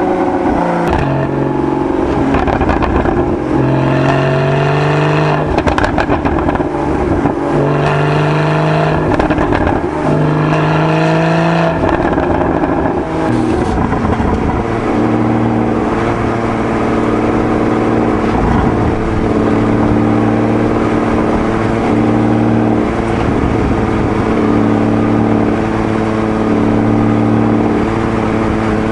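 Porsche 981 Boxster GTS's 3.8-litre naturally aspirated flat-six, heard through its stock exhaust. It rises in pitch several times over the first dozen seconds, dropping back between each rise, then runs at a steady engine speed.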